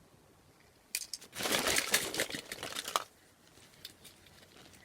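A bag rustling and crinkling for about two seconds as hands rummage in it, with a few sharp clicks, starting about a second in.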